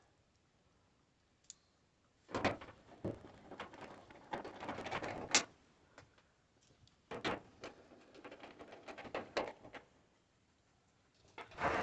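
Intermittent clicks, knocks and rattles of dryer cabinet panels, parts and tools being handled during reassembly. After a quiet first couple of seconds they come in clusters, with a louder clatter near the end.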